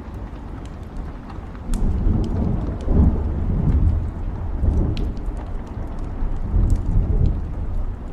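Thunder rolling over steady rain: a low rumble swells up about two seconds in, peaks around three seconds, and rumbles on in waves before fading near the end. Scattered sharp ticks run through it.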